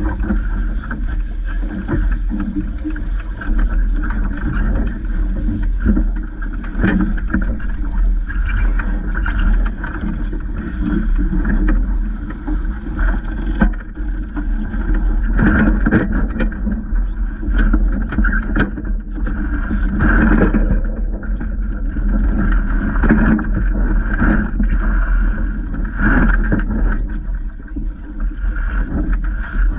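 Water rushing and splashing against the hull of a small Vaucluse Junior sailing dinghy under way, with irregular splashes over a steady low rumble.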